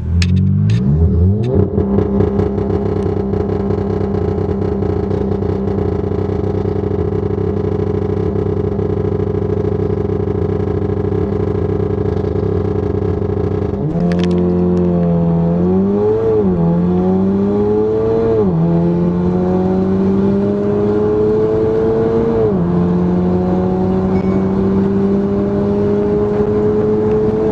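Straight-piped Golf R's turbocharged four-cylinder exhaust, holding a steady note for about half the time. It then accelerates hard, the pitch climbing through the gears and dropping sharply at three upshifts.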